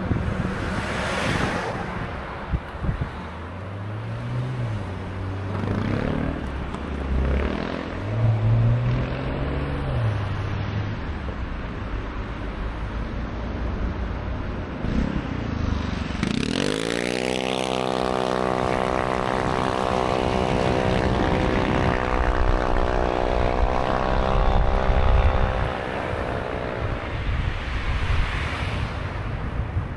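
Wind rushing over the microphone of a moving bike, with the noise of traffic. About halfway through, a motor rises in pitch and then holds a steady hum for about ten seconds.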